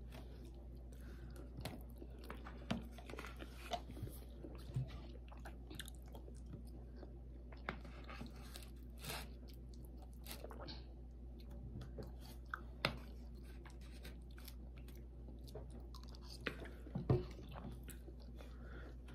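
People chewing food at a table, with scattered light clicks of forks against plates.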